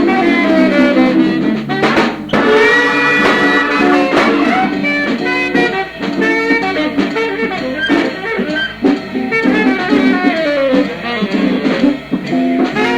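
A small jazz group of organ, guitar, tenor-range saxophone and drums playing a slow ballad, with a cymbal crash about two seconds in. It is an old live recording transferred from reel-to-reel tape, with dull treble.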